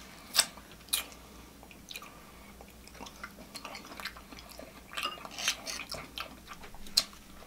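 Close-up chewing of a mouthful of soft meat, with sharp wet smacks about half a second and one second in, another near the end, and softer smacking in between.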